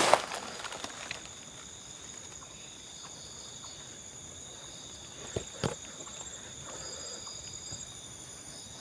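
Crickets and other night insects chirping steadily in a high-pitched chorus, with two faint knocks or snaps about five and a half seconds in.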